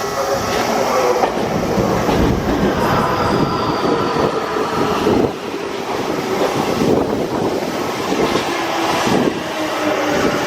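Y500-series electric commuter train pulling into a station: wheels clacking over the rail joints, with steady whining tones from the train running underneath.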